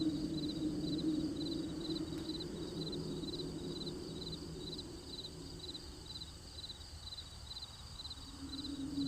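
Crickets chirping steadily at night, about two short pulsed chirps a second, over a low hum that fades away in the middle and returns near the end.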